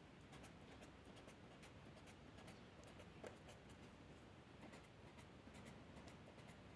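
Faint scratching of a drawing tool on paper in many short, quick strokes, with one sharper tick a little after three seconds in.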